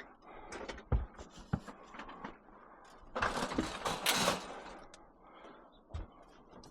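Scrap being handled in and around a van: a few knocks and thuds, with a longer clattering scrape about three seconds in.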